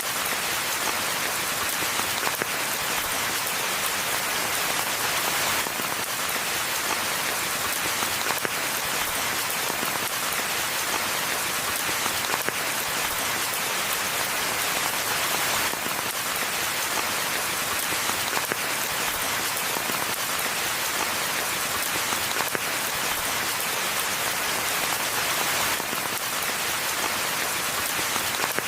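Steady rain falling on a forest floor, an even dense hiss of countless drops with fine individual patters and no thunder.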